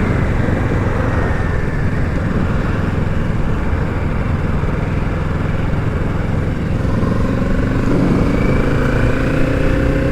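Kawasaki Z650's parallel-twin engine running under way, with steady wind and road rush; the engine note climbs gradually over the last few seconds as the bike speeds up.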